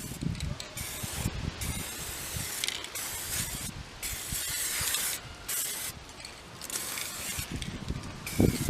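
Aerosol spray-paint can spraying in a series of hissing bursts, each a second or two long, with short breaks between them.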